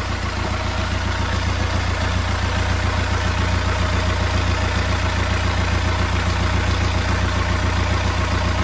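Sailboat's inboard diesel engine idling steadily, with its newly fitted alternator charging the battery.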